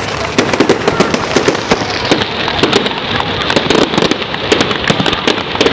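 Fireworks crackling, a dense run of many sharp pops each second.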